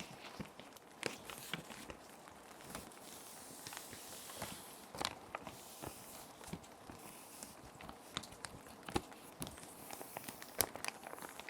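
Clear plastic sheet protectors crinkling and rustling as they are handled and paper sheets slide into them, with many sharp crackles and a few longer hissing slides. A soft hiss of rain sounds runs underneath.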